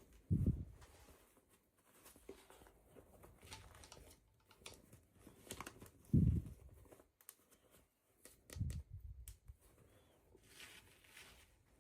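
Packaging being handled and opened by hand: scattered crinkles, small clicks and tearing rustles, with three dull thumps, one near the start, one about halfway and one a couple of seconds later.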